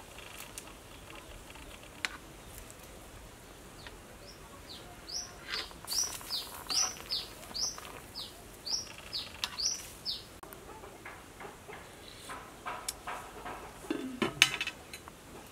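A bird calling in a rapid run of short, sharp chirps, about three a second, starting a few seconds in and stopping after about six seconds. Near the end come a few clicks and one louder knock.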